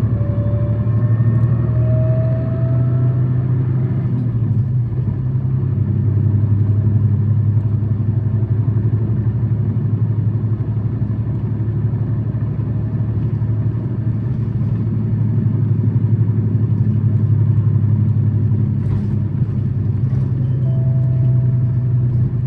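City bus (Tokyu Bus H854) heard from on board while under way: its engine drones steadily at high revs. A faint rising whine fades out in the first few seconds, and a brief higher whine comes near the end. This bus is known for an abnormal running noise.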